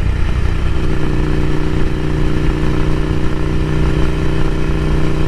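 Ducati Scrambler Café Racer's air-cooled L-twin running through a Vance & Hines slip-on exhaust while cruising at a steady engine speed. The engine note holds level, with a slight change in its tone about a second in.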